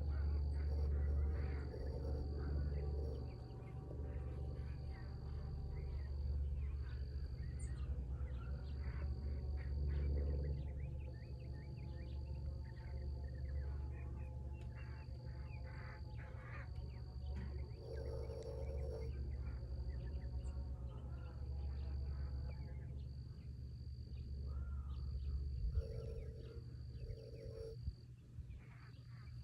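Outdoor ambience: an insect's high buzzing trill repeating every second or two over a steady low rumble, with a few short animal calls about two-thirds of the way in and again near the end.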